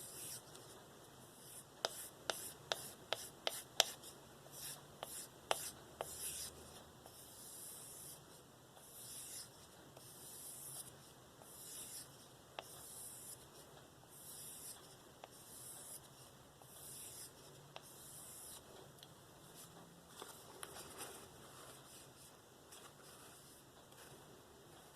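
Knife blade being stroked edge-trailing along a balsa strop loaded with 5 micron diamond paste, a soft scraping hiss about once a second, to strip the last fine burr from the S30V edge. A few sharp clicks of the blade come in the first few seconds.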